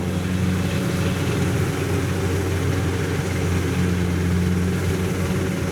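Engine running steadily at a constant pitch.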